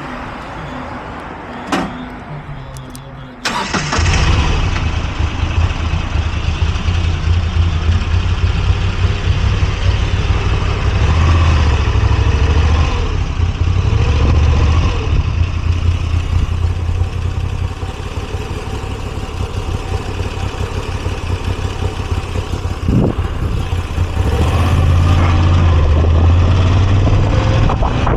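Moto Guzzi V85TT's air-cooled transverse V-twin starting about three and a half seconds in, after a few clicks, then running with a deep low throb that swells and eases a few times.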